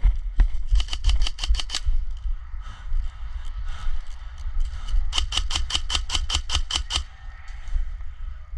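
Airsoft gun firing two rapid bursts of sharp pops at about seven or eight shots a second: a short burst about a second in and a longer one of two seconds about five seconds in. A steady low rumble sits underneath.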